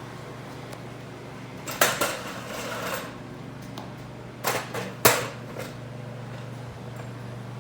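A few sharp knocks and clunks, one cluster about two seconds in and three more in quick succession around four and a half to five seconds, over a steady low hum.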